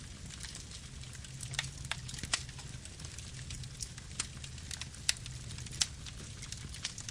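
Campfire burning: a steady low rumble of flames with irregular sharp crackles and pops from the burning wood, several loud snaps scattered through.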